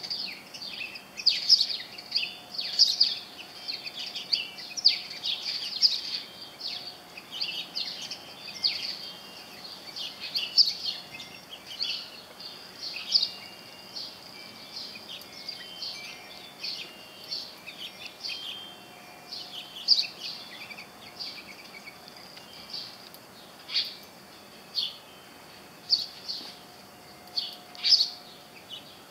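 Small songbirds chirping: many short calls in quick succession, thicker in the first half and sparser later.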